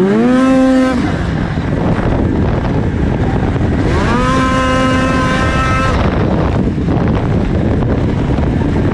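2004 Arctic Cat F6 snowmobile's 600 cc two-stroke twin revving hard twice. Its pitch climbs fast and holds high for about a second at the start, drops back, then climbs and holds again for about two seconds from midway through.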